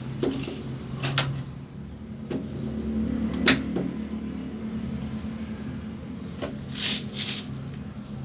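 Scattered sharp clicks and knocks of hard parts being handled, loudest about three and a half seconds in, with a brief scraping rush near the end, over a steady low hum.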